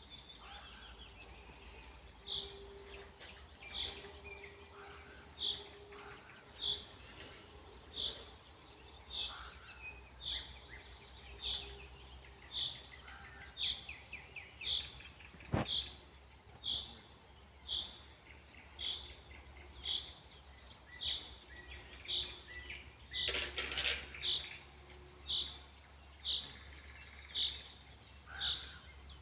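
Birdsong at dawn: one bird repeats a short, high note about once a second, with other birds chirping faintly behind it. A single sharp click about halfway through and a brief noisy burst about two-thirds through.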